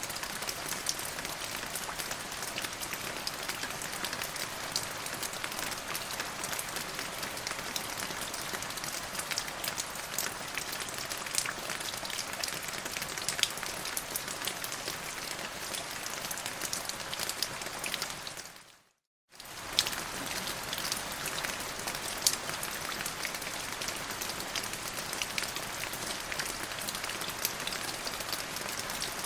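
Steady rain falling: a dense, even patter of drops with many small sharp drop ticks on top. Shortly before the 19-second mark it fades out to silence for about half a second, then comes straight back.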